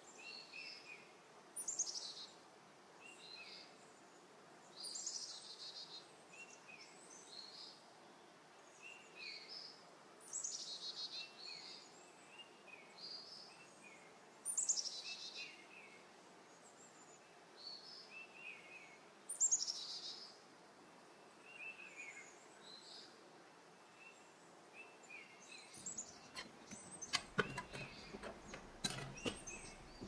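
Faint bird song: a short, bright descending phrase repeated every four to five seconds, with softer chirps in between. Near the end, a run of clicks and knocks from objects being handled.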